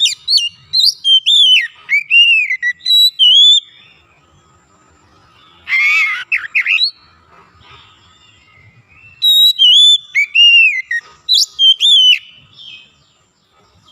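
Oriental magpie-robin singing: loud whistled notes that glide up and down, in two long phrases, with a shorter harsh, rasping burst about six seconds in.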